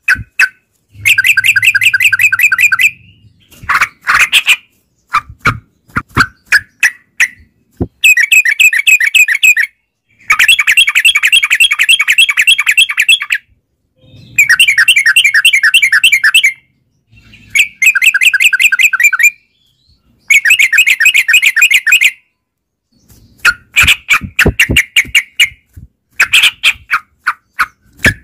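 Yellow-vented bulbuls (trucukan) calling in loud bouts of rapid chattering notes, each bout two to three seconds long, with short pauses and runs of single separate notes between them.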